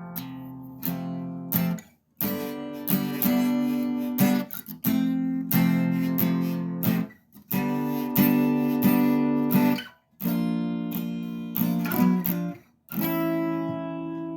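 Acoustic guitar strumming chords in an instrumental break, with several abrupt stops where the sound cuts out briefly before the next strum.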